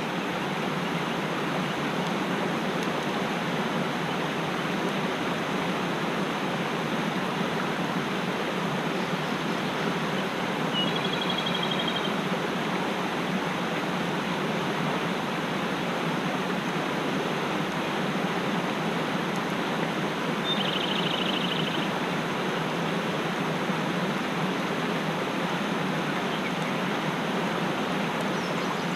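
Mountain stream rushing steadily, with a small bird giving a short trilled call twice, about a third of the way in and again about two-thirds through.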